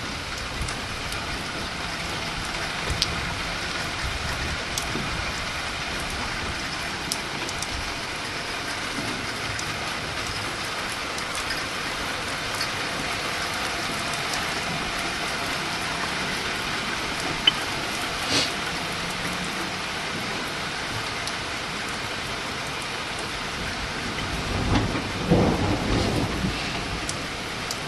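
Steady rain falling during a thunderstorm, with a few sharp drop clicks. Near the end comes a rumble of thunder lasting about two seconds, the loudest thing here.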